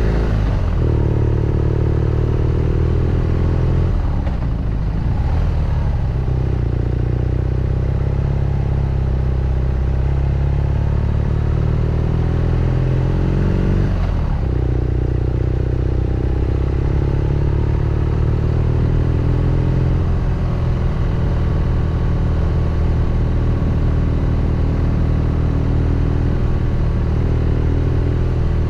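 BMW R nineT Scrambler's 1170 cc air/oil-cooled boxer twin running under way, its exhaust note holding steady for stretches and changing pitch sharply twice, about four seconds in and again about fourteen seconds in, as the rider works the throttle and gears.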